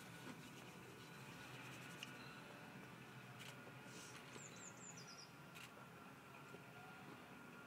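Near silence: quiet outdoor ambience. About four seconds in, a bird gives a quick run of four or five faint, high, falling chirps, and a couple of faint clicks can be heard.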